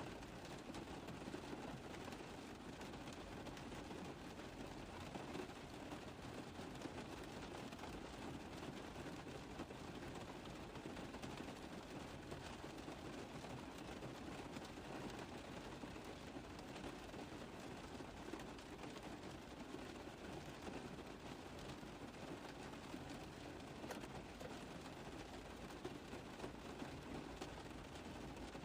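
Rain falling on a car roof: a steady, dense patter of many small drop impacts.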